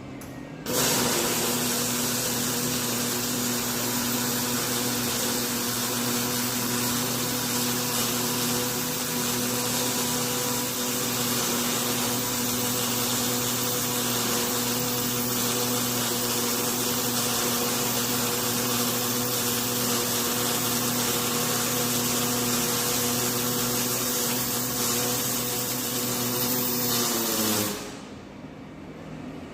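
An electric power tool's motor runs steadily for about 27 seconds, giving a hiss with a steady hum. Near the end it is switched off and its pitch falls as it spins down.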